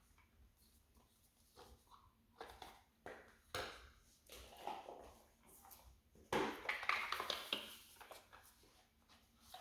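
Tarot cards being shuffled and handled: scattered soft rustles and card slaps, with a denser run of riffling about six seconds in.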